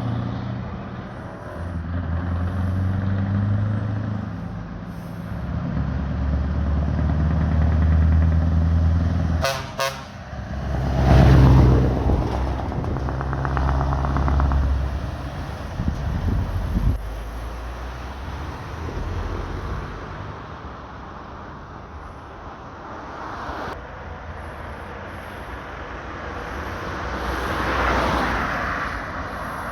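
Show trucks driving past one after another, their diesel engines running and pulling away, each swelling and fading as it passes, with horn toots. Two sharp clicks come just before ten seconds, and the loudest truck passes just after.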